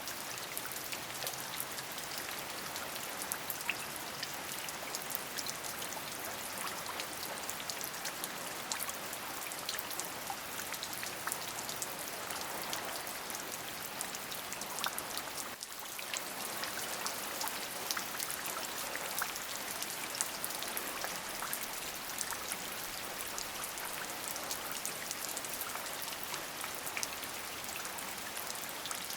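Steady rain, with many individual drops ticking sharply over an even hiss. The level dips briefly about halfway through.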